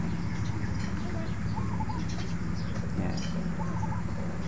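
A bird calling outdoors: a short, wavering call repeated a few times, about every two seconds, over a steady low hum.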